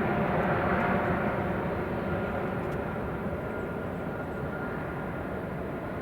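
Engine noise of a climbing Airbus A220-300 after takeoff: the steady rushing sound of its Pratt & Whitney PW1500G geared turbofans, slowly fading as the jet draws away.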